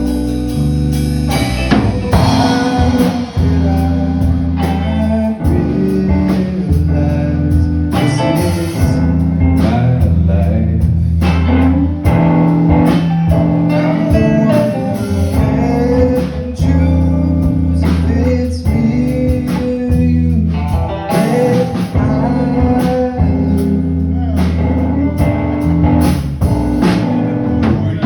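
A song performed live: a singer over guitar, low bass notes and a drum kit.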